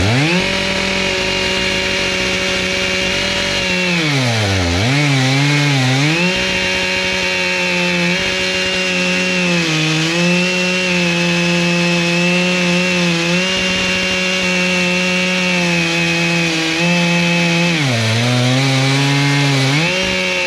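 Chainsaw on an Alaskan mill ripping a butternut log lengthwise into slabs, running at high revs under load. Its engine pitch sags twice as it bogs in the cut, about four seconds in and again near the end, then climbs back up.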